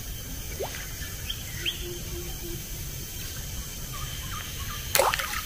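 Faint, scattered bird chirps, a few short rising calls, over steady low background noise by a forest river. Near the end comes one sudden, short, loud sound.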